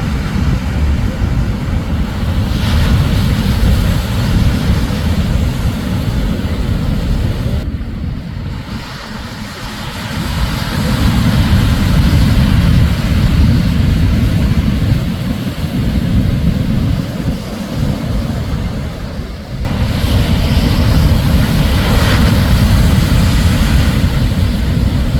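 Shorebreak waves breaking and washing up the beach, under heavy wind rumble on the microphone. The sound eases briefly about eight seconds in and dips again shortly before twenty seconds.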